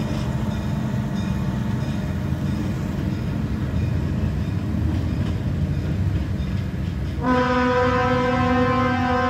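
Budd RDC rail diesel car's diesel engines rumbling steadily under power, then the car's horn starts a loud held blast about seven seconds in.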